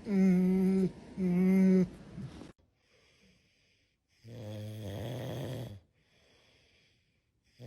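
Dog snoring: two long, rasping snores a few seconds apart. Before them, in the first two seconds, come two held, steady vocal tones of just under a second each.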